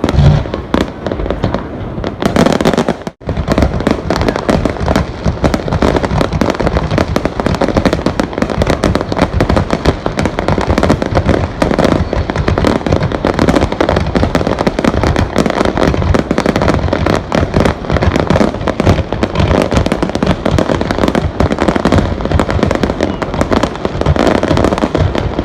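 Fireworks display going off continuously: a dense, unbroken barrage of bangs and crackles, with a momentary drop about three seconds in.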